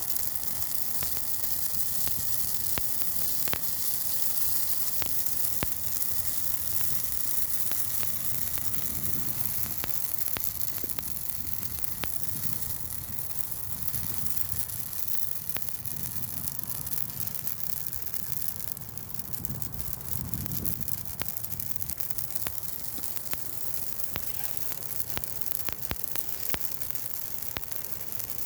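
Burning Douglas fir Christmas tree: sharp crackles and pops, many a second, over a steady hiss of flames, with a low rumble that swells and fades.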